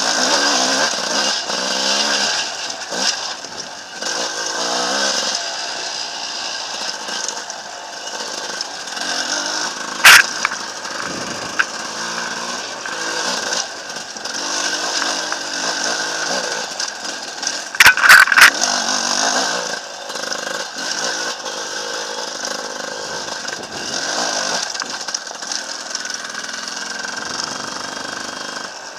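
Enduro dirt bike engine running while being ridden over a rocky trail, its pitch rising and falling with the throttle, picked up by a helmet-mounted camera. Sharp, loud knocks ring out about ten seconds in and again in a quick cluster around eighteen seconds.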